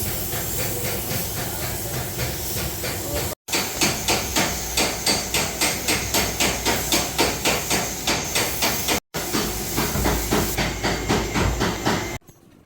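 Rapid, regular hammering on car body sheet metal, about three or four blows a second over a steady hiss, broken by two short cuts and stopping suddenly near the end.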